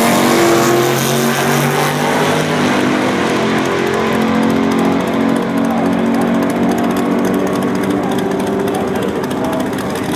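1962 Chevrolet Impala's 409 V8 at full throttle on a drag run, pulling away with its pitch climbing and then stepping down at each gear change. It stays loud, easing off slightly near the end.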